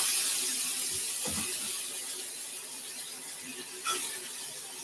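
Peppers and onions sizzling in a skillet on a gas stove with tomato ketchup just added, a high hiss that fades slowly. A brief clink about four seconds in.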